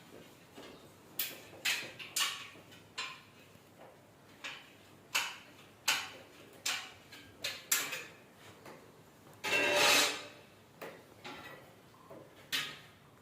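Irregular sharp knocks and clacks, about a dozen spread unevenly, of hand work with tools and parts, with one longer, louder rattling scrape about ten seconds in.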